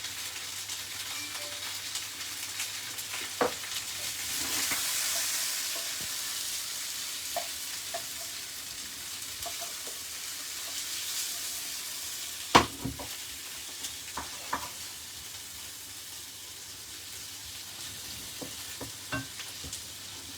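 Food sizzling as it fries in a pan, with a steady hiss that swells about four seconds in. A utensil stirring it knocks against the pan a few times, the loudest knock about halfway through.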